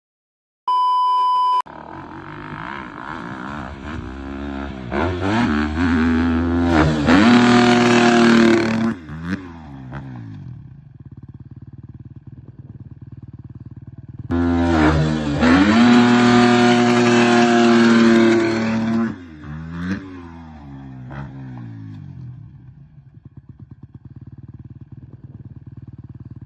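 A short steady beep, then a dirt bike engine revving hard through the gears twice, the pitch climbing and dropping at each shift. Between and after the two hard pulls it runs lower and steadier.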